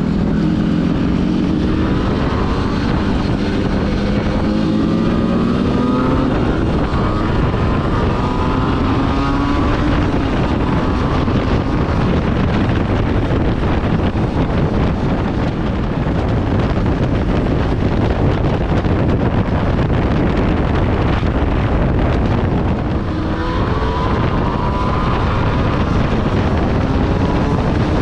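125 cc motorcycle on the move, with heavy wind noise on the microphone. Its engine pitch rises several times in the first ten seconds, shifting up through the gears, and rises again about 23 seconds in.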